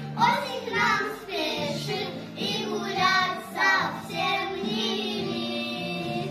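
A child singing a song over a musical accompaniment with steady held low notes.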